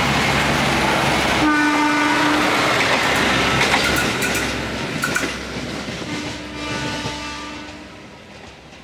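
Inspection railcar running past on the rails with a loud rumble, then a train horn sounding twice: a blast of a little over a second about a second and a half in, and another about six seconds in. A few wheel clacks come between the blasts, and the train fades away near the end.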